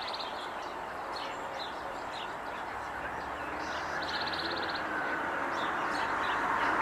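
Outdoor bird calls: scattered short high chirps from small birds and a brief rapid trill about four seconds in, over a steady background noise that grows louder toward the end.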